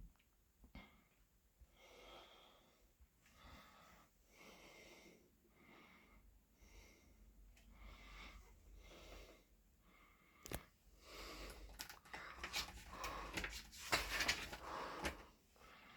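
Faint breathing close to the microphone, with soft puffs about a second apart. Near the end a click is followed by louder paper rustling as guidebook pages are handled and turned.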